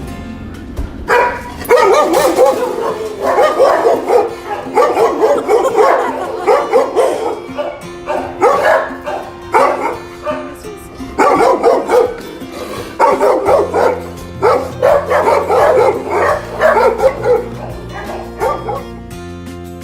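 Dog barking in repeated bouts, starting about a second in and dying away near the end, over acoustic guitar background music.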